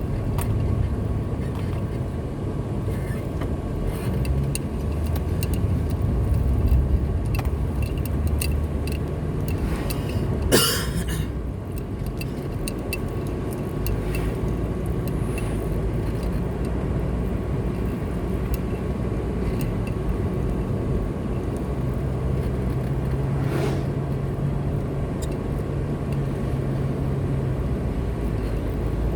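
Car driving along a road: a steady engine and tyre rumble, with one sharp knock about ten seconds in and a fainter one later.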